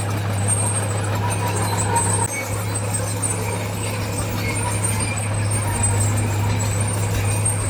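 Heavy diesel engine of earthmoving machinery running steadily at a constant speed, with a brief dip about two seconds in.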